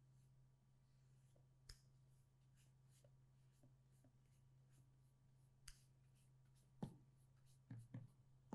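Near silence: a low steady hum with faint scattered light taps and scratches, and a few louder knocks about seven seconds in and near the end.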